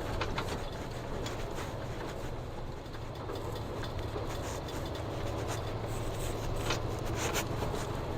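A truck driving on a snowy road, heard from inside the cab: a steady low engine and road drone, with scattered light clicks and crackles over it.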